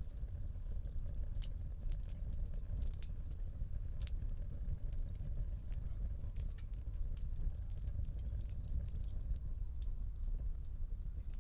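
Wood fire burning in a fireplace: steady crackling with frequent small sharp pops and snaps over a low rumble of flames.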